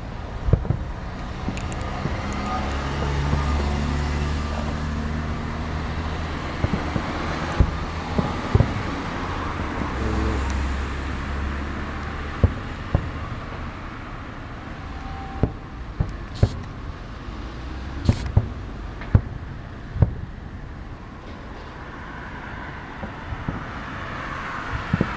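Fireworks salute: about a dozen sharp, irregularly spaced bangs of bursting shells over a continuous rumble, with two longer low booms rolling on for a second or two.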